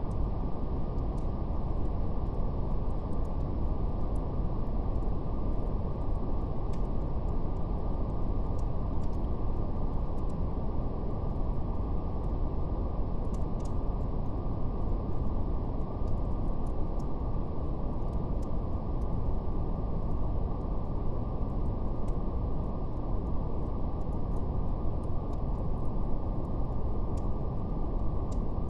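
Steady brown noise, a deep even rumble that falls away sharply above the low-mid range, with a faint, irregular crackle of a fire ticking over it.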